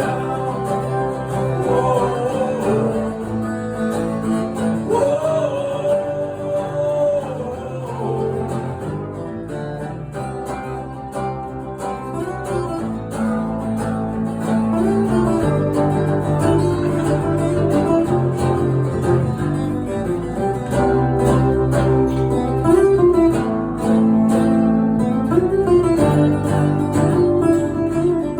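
Acoustic band music played live: strummed acoustic guitars holding chords, with a wavering lead melody line over them.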